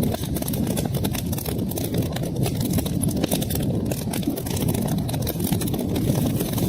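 Wood fire crackling in a fireplace: a steady low rumble of flames with many small, irregular pops and snaps throughout.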